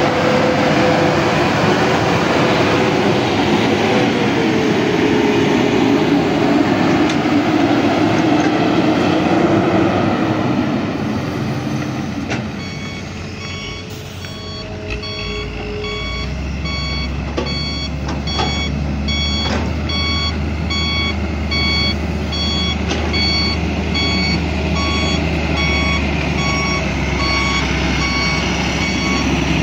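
A heavy dump truck's diesel engine running loud with its pitch shifting, then, about twelve seconds in, its reversing alarm begins beeping steadily, a bit more than once a second, over a low engine rumble as the truck backs up. A few short knocks sound among the beeps.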